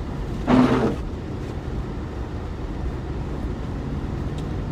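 Steady engine and tyre rumble inside a vehicle driving slowly on a snow-covered highway. About half a second in there is one short, loud squeak as the windshield wiper drags across the glass.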